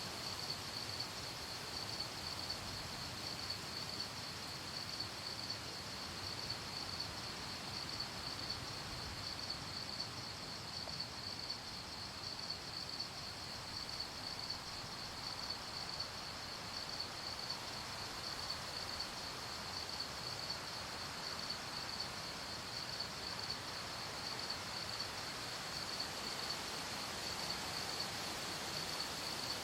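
Crickets chirping in a steady, even pulse, high-pitched, over a soft background hiss of night air.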